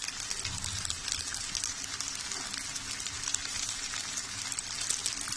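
Green peas, chopped onion and green chillies sizzling in hot oil in a kadhai, a steady hiss with many small crackles.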